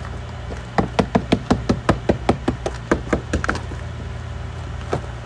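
A hammer strikes a frozen car door in a fast run of about six blows a second for nearly three seconds, then one more blow near the end, to break the ice so the door will open. A steady low hum runs underneath.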